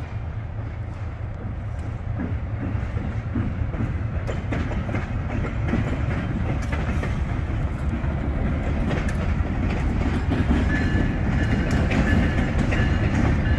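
A diesel freight locomotive rumbles as railcars roll slowly along, with wheels clicking over the rails. The sound grows steadily louder, and faint high squeals come in near the end.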